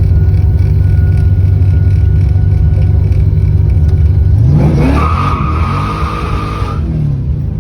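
Supercharged 1989 Ford Mustang GT V8 rumbling at a light, then launching about four and a half seconds in: engine pitch climbing fast, with a high steady squeal for about two seconds, then the revs dropping near the end.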